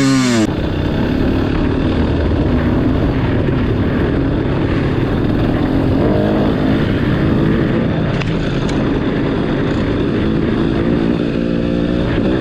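2022 KTM 300 XC-W two-stroke dirt bike engine with an FMF exhaust being ridden: revving up and down for a moment at the start, then running steadily at part throttle.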